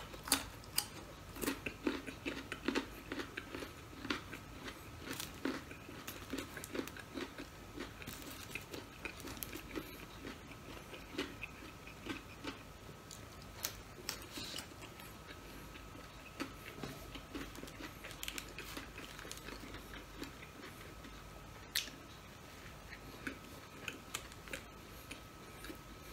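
A person chewing and biting crunchy food close to the microphone: green mango slices and fries. Many small irregular crunches and wet chews run throughout, over a faint steady high hum.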